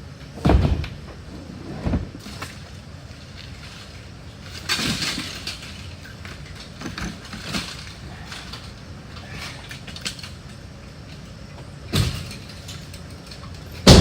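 Junk and debris being thrown into a truck: separate heavy thuds about half a second in, near two seconds, around twelve seconds and at the very end, with a longer scraping clatter around five seconds.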